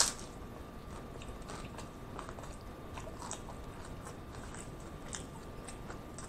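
A person chewing a mouthful of taco, with soft, scattered wet mouth clicks and smacks.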